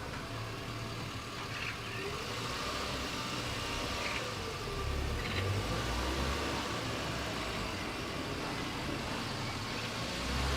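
Steady outdoor background rumble and hiss, with a few faint short bird calls about one and a half, four and five seconds in.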